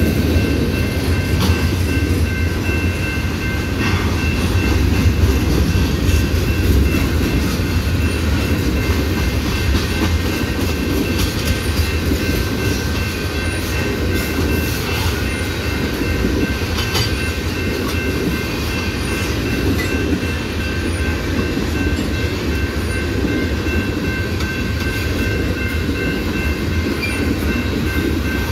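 Cars of a mixed freight train passing at speed: a steady rumble of steel wheels on the rails, with the clickety-clack of wheels crossing rail joints.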